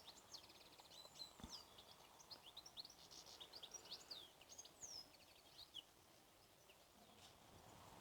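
Faint birdsong: a small bird's quick high chirps and short trills, dying away about five seconds in, over near-silent riverside quiet.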